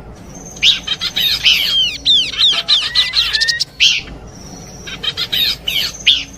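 Pelanduk semak babbler song in a lure recording, with several calls combined: fast bursts of high chirps and swooping downward notes overlapping, a few rising whistles about three seconds in, and a brief lull before the chirping resumes.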